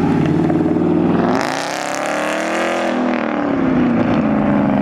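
A sports car's engine accelerating hard: its note rises in pitch about a second in, then falls away as the car goes past.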